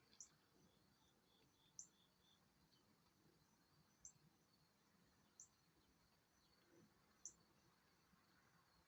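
A bird giving short, high chip calls, five in all, about every one and a half to two seconds, over a faint high-pitched insect-like trilling.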